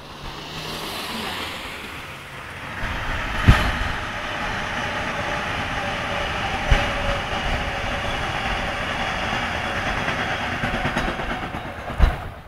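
Metro-North electric commuter train passing at speed: a steady rush of wheels on rail that builds over the first few seconds, with a few sharp clicks and knocks from the wheels.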